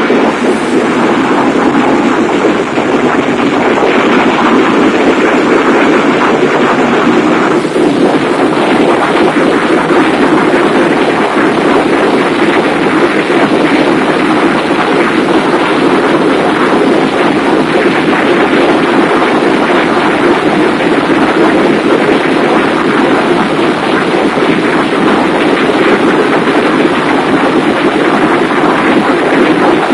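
Loud, steady machinery noise in a passenger ferry's engine room, with the ship's engines and auxiliary machinery running as an even, dense din with no distinct beat. A faint high whine steps up in pitch about eight seconds in.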